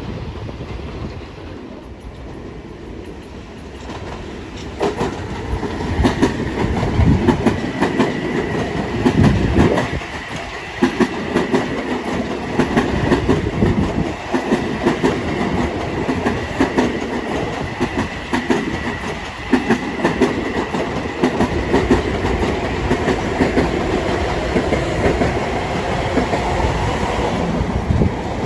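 Long Island Rail Road train passing on the tracks, its wheels clicking rapidly over the rail joints with a steady high whine. The sound builds a few seconds in and stays loud.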